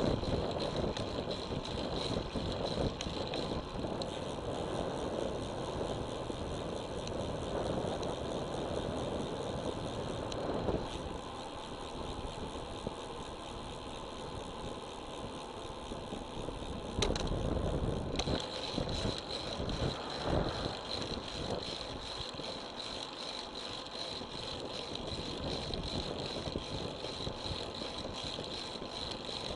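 Riding noise from a road bicycle picked up by an action camera: a steady rush of wind and tyre noise with light rattling from the bike. A louder, deeper rush comes about seventeen seconds in.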